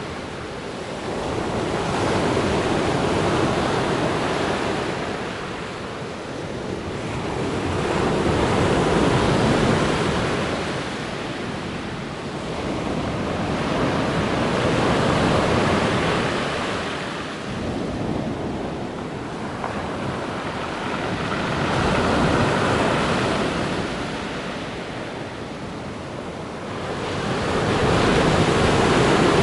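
Black Sea surf: waves break and wash up the shore in slow swells about every six seconds.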